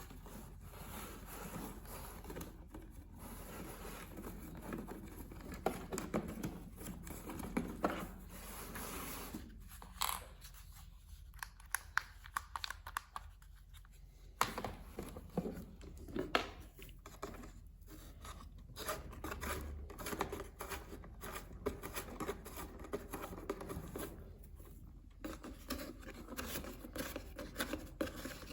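Hands unpacking a toy from its packaging: cutting, tearing, scraping and rustling sounds, broken by many small irregular clicks and knocks.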